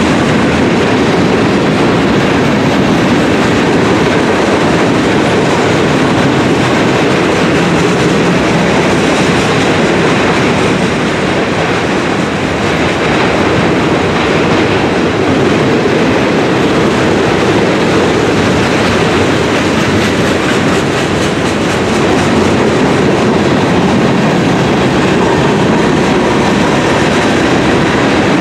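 Freight train cars (tank cars, covered hoppers and boxcars) rolling past, a loud, steady noise of steel wheels running on the rails.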